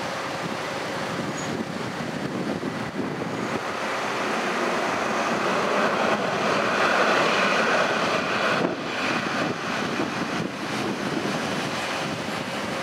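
A train rolling past with a broad rushing noise that builds to its loudest about halfway through and then eases off, with wind on the microphone and a faint steady hum underneath.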